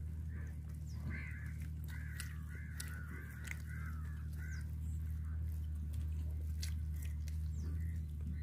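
A bird calling in a quick run of short, wavering calls that starts about a second in and stops around halfway, over a steady low hum and a few scattered light clicks.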